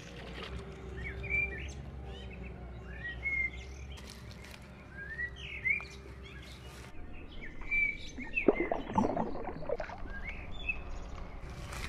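Small birds chirping, many short rising and falling calls throughout, over a low steady rumble that stops about seven seconds in. About eight and a half seconds in comes a brief, louder burst of noise.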